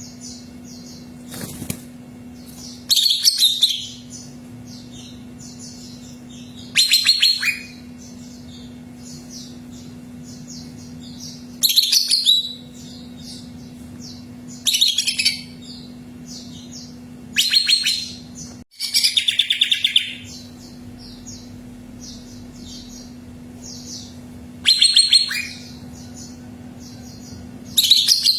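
Cucak ijo (green leafbird) singing: loud, rapid phrases about a second long come every few seconds, with softer short chips in between. A steady low hum runs underneath.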